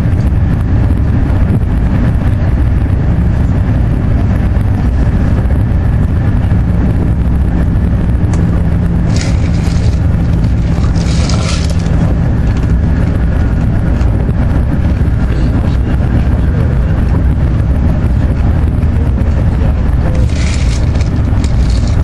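Steady low rumble of an AVE high-speed train running at speed, heard from inside the passenger car, with two brief higher rushes of noise, one midway and one near the end.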